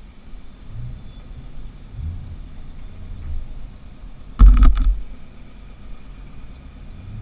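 Car engine running with a low, steady rumble. A short, loud burst of noise comes a little past the middle.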